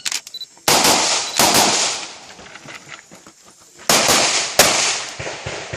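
Handgun shots fired in quick strings, each a sharp crack with a short echoing tail: a few quick shots in the first second and a half, a lull of about two seconds, then another string from about four seconds in.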